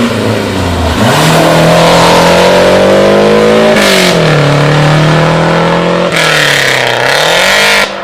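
Rally car engine at full throttle on a special stage, loud and high-revving. Its pitch dips early on, climbs from about a second in, drops sharply at a gearshift just before the middle, holds steady, then dips and rises again near the end as the car lifts and accelerates again.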